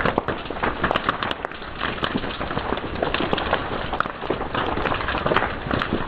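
Wood fire crackling, with a dense run of irregular small pops and snaps over a steady hiss.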